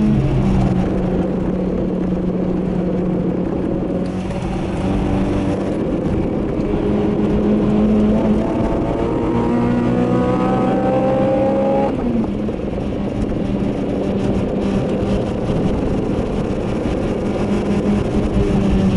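Honda Civic Type R's 2.0-litre i-VTEC four-cylinder engine, with cold-air intake and aftermarket exhaust, heard from inside the cabin under power. The revs climb steadily through a gear and the pitch drops suddenly about twelve seconds in at a gear change, over steady tyre and road noise.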